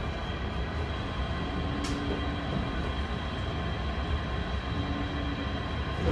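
Electric double-decker RER A commuter train running, heard from inside the passenger car: a steady low rumble with a constant electric motor whine. There is a single sharp click about two seconds in.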